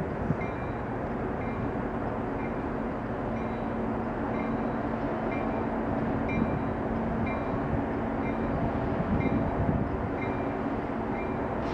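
Freight train rolling past with a steady rumble and a low hum. A faint, short high squeak repeats about once a second.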